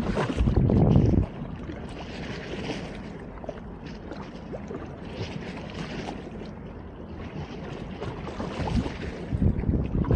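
Wind buffeting the microphone, loud gusts of low rumble in the first second and again near the end, over a steady rushing noise in between.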